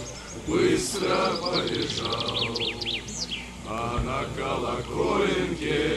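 A songbird singing a fast series of repeated high notes that ends in a few downward-sweeping ones, from about a second in to about three seconds in, over a person's voice.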